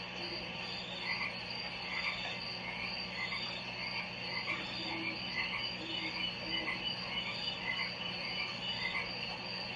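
Frogs croaking in short calls repeating about twice a second, over a steady high insect-like drone and a low steady hum.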